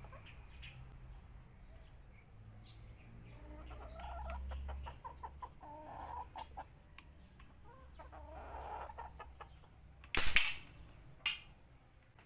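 Chickens clucking on and off. About ten seconds in comes one loud shot from a homemade PVC pipe gun with a short hissing tail, then a second, shorter sharp crack about a second later.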